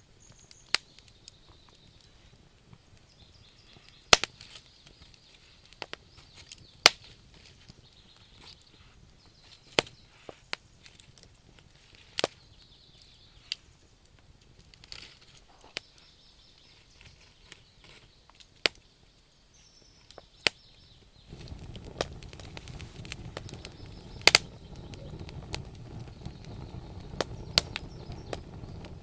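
Wood campfire crackling, with sharp irregular pops and snaps from the burning logs. About 21 s in, a steady low rushing noise joins the crackle.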